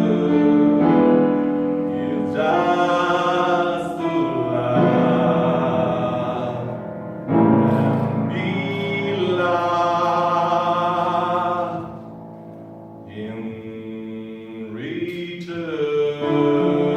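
Singing with instrumental accompaniment, long held notes with vibrato, dipping quieter about twelve seconds in.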